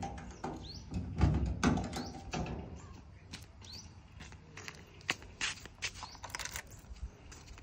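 Small birds chirping now and then, with scattered light clicks and knocks.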